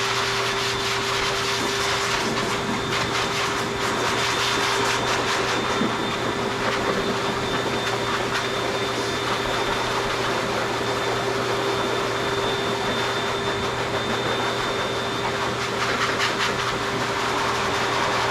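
Aiiyme 4.3 HP/3200 W high-velocity dog grooming dryer running steadily, an even rush of air with a constant hum, blowing through a dog's coat.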